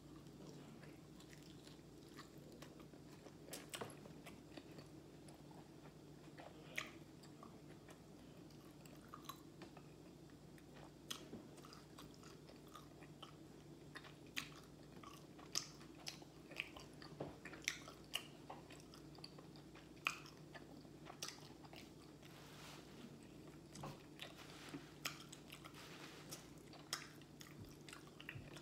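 A person biting and chewing fried chicken close to the microphone: faint, irregular wet mouth clicks and small crunches, scattered through the whole stretch over a steady low hum.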